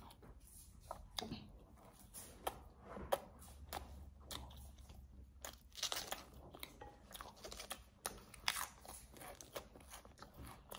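A person chewing a mouthful of potato wedges topped with cheese and bacon: faint, irregular crunchy clicks of chewing and biting.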